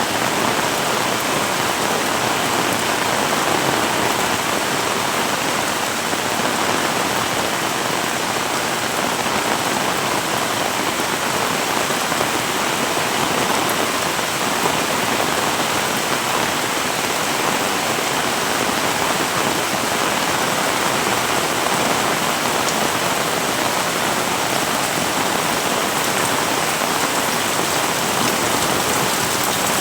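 Heavy rain falling steadily, a dense even hiss of drops pattering on surfaces, with no lulls or sudden sounds.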